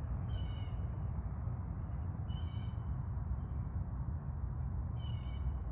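Three short, high mewing calls about two and a half seconds apart, over a steady low background rumble.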